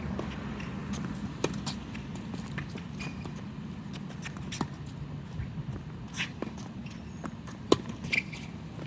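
Tennis rally: sharp racket-on-ball hits every second or two, the loudest near the end, with a few short squeaks of shoes on the court.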